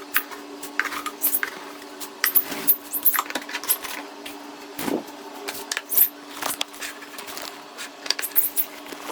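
Cockatiels feeding: irregular sharp clicks and taps from their beaks pecking and cracking food, over a steady low hum.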